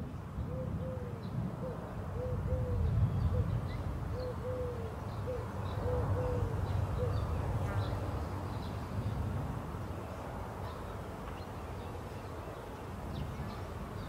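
A bird calling in the background: about a dozen short notes, each rising and then falling in pitch, over the first seven seconds, over a low steady rumble.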